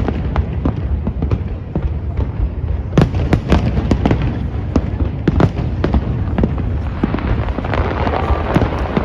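Aerial fireworks bursting in rapid, continuous succession: sharp bangs and crackles over a steady low rumble, with a denser cluster of loud bangs about three seconds in.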